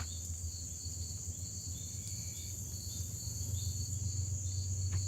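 Crickets trilling steadily, with a low steady hum underneath.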